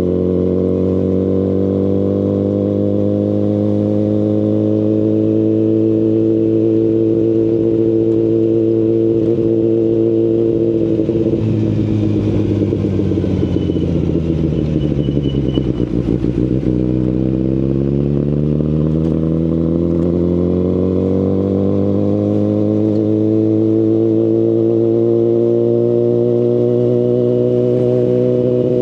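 2019 Kawasaki Ninja ZX-10RR inline-four running through an Akrapovic Evolution full exhaust system while riding. The engine note climbs slowly for about ten seconds, drops away over the next few seconds as the bike slows, then climbs steadily again.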